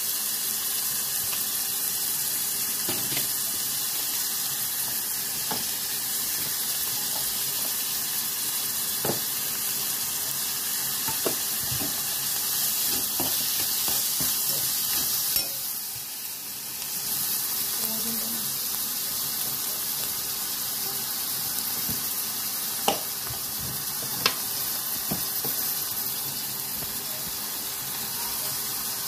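Vegetables sizzling as they stir-fry in a metal wok, a steady hiss, with occasional sharp clicks of a steel ladle against the pan.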